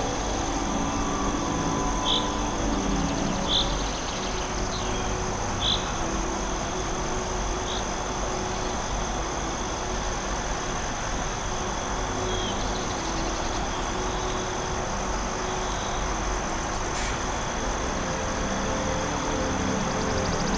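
Forest ambience with insects, likely crickets, holding a steady high-pitched drone. Short high chirps come every second or two during the first eight seconds, over a low steady hum.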